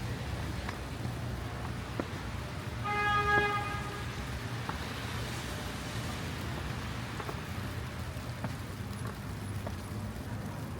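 Steady low rumble of city street traffic, with a single short car-horn toot about three seconds in.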